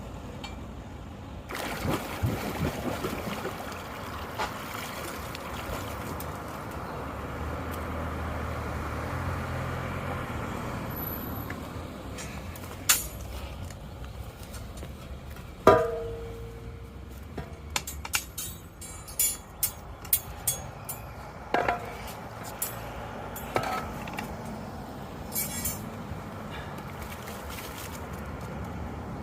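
Metal tool clinking and scraping against a storm drain grate, with sharp knocks, one of which rings briefly, over the steady rush of water running into the drain.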